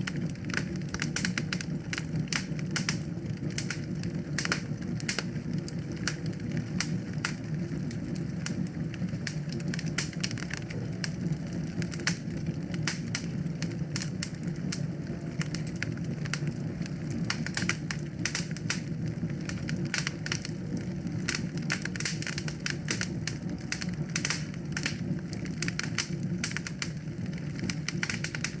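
Wood fire in a fireplace crackling: many irregular sharp pops and snaps over a steady low rumble of burning flames.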